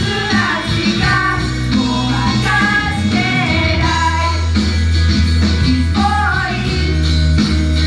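An idol group singing live in unison over loud rock-pop backing music with a steady, deep bass line.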